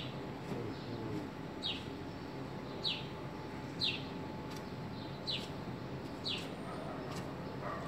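A bird chirping: short, high chirps that each fall in pitch, repeated about once a second, over a steady low hum.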